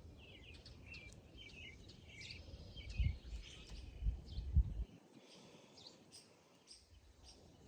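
Birds chirping in the background, with a few low thuds about three seconds and four seconds in from parts being handled.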